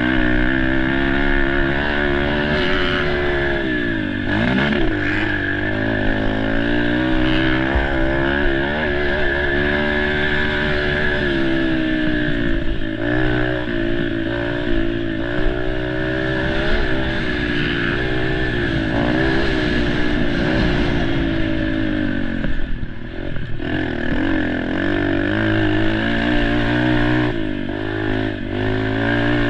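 Dirt bike engine being ridden hard, its pitch rising and falling with the throttle and gear changes, with brief drops off the throttle about four seconds in and again a little past twenty seconds.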